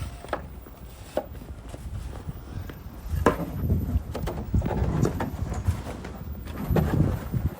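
Footsteps with irregular knocks and thuds, louder from about three seconds in.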